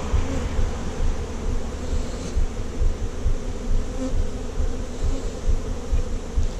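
Honeybees buzzing in a dense, steady hum close around the microphone, a crowd of agitated bees stirred up while their nuc is being moved into a new hive. A low rumble lies under the hum.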